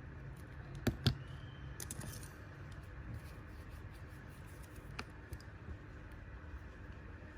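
Two sharp clicks close together about a second in, then a fainter click near five seconds, over a low steady hum.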